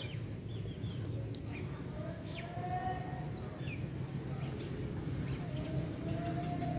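Ringneck parrot making short, quick high chirps, with two longer held mid-pitched calls, over a steady low background hum.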